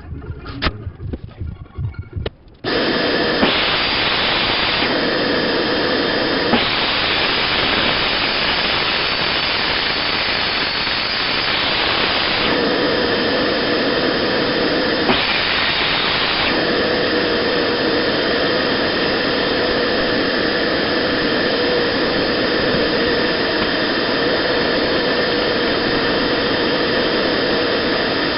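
A motor-driven workshop machine running steadily at a loud level. It starts abruptly about two and a half seconds in, after a few short knocks, and its hiss brightens and dulls several times as it runs.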